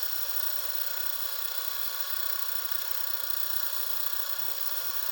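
Yuneec Typhoon H hexacopter's six brushless motors running steadily on the bench. They make an even whine with several constant tones and show no change in speed. The motors are running smoothly, without vibration.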